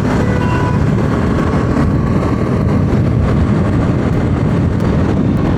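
Bajaj Pulsar 200 NS motorcycle on the move: steady engine and riding noise picked up by the bike's onboard microphone, heaviest in the low range.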